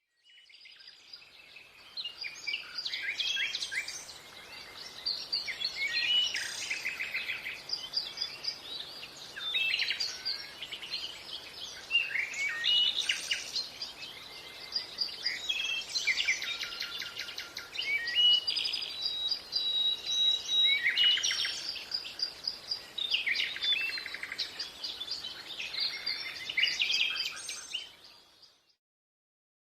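Green parrot calling and chattering almost without pause: a busy run of whistles, chirps and rapid trills in phrases a few seconds long, stopping shortly before the end.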